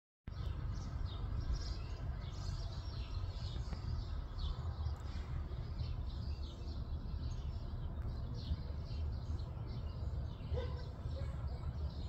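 Small birds chirping and singing in short high calls throughout, over a steady low rumble. A faint pitched call begins near the end.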